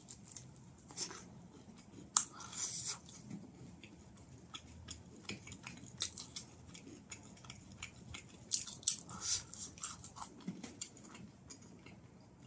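Biting and chewing of battered fried chicken in soy sauce, with many short, sharp crackles and crunches, loudest a couple of seconds in and again past the middle.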